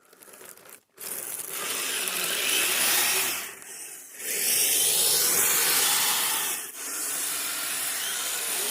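Radio-controlled crawlers' electric motors and geartrains running under throttle, with tyres or tracks working through snow: a loud, steady whirring and rubbing that dips briefly twice as the throttle is eased off.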